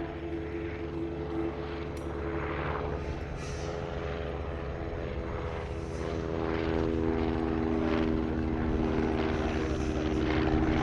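Propeller engines of First World War-era aircraft flying a display, a steady drone with several engine tones that grows louder over the last few seconds.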